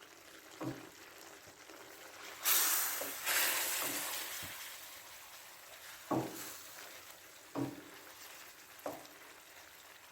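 Chicken and vegetables sizzling in a pan as they are stirred. A loud burst of sizzling comes in about two and a half seconds in and fades slowly, and a few sharp knocks are heard against the pan.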